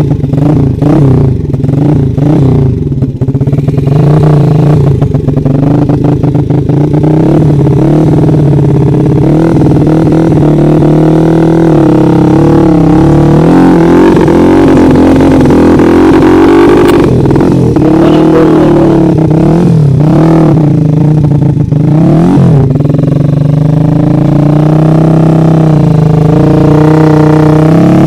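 Trail dirt bike engine revving hard and unevenly, its pitch rising and falling as it labours up a steep trail, with some clatter.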